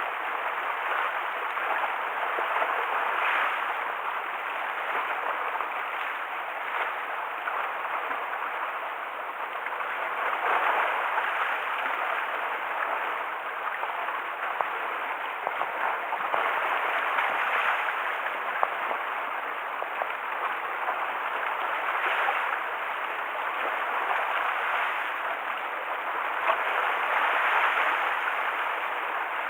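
Rough sea stirred up by a typhoon, waves washing and splashing against the harbour shore, swelling and easing every few seconds.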